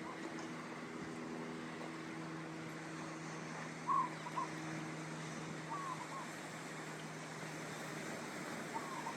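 Ocean surf washing on a beach, with a steady low engine hum under it. Short bird calls come about 4 s in, again near 6 s and just before the end.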